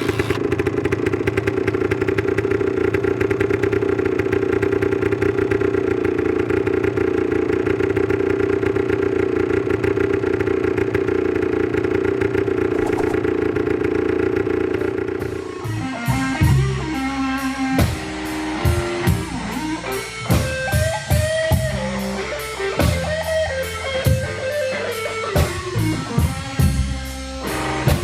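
A motorcycle engine running steadily at one speed for about fifteen seconds, then a rock song with drums, electric guitar and singing takes over.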